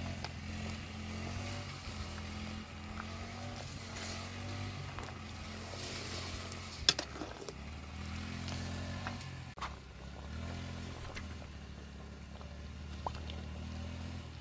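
An engine or motor running unevenly, its low hum rising and falling in pitch every few seconds, with a sharp click about seven seconds in.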